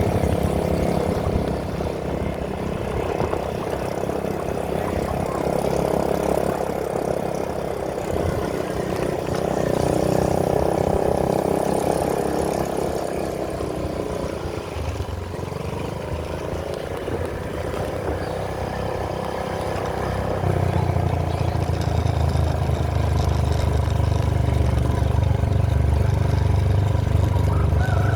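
A steady engine-like motor sound with a strong low hum, its pitch dipping and then rising again about halfway through, and the low hum growing louder over the last third.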